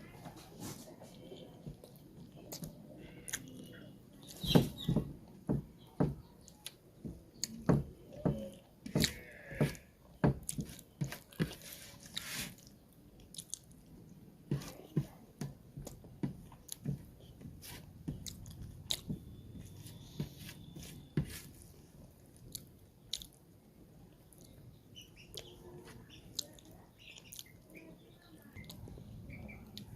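Close-miked chewing and biting of a person eating chicken curry and rice: irregular wet mouth clicks and smacks, busy and loud for the first dozen seconds, then sparser and softer.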